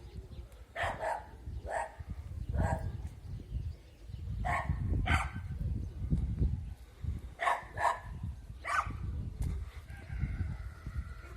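Wind buffeting the microphone in a steady low rumble, with about nine short, sharp animal calls or cracks scattered through it, some in quick pairs.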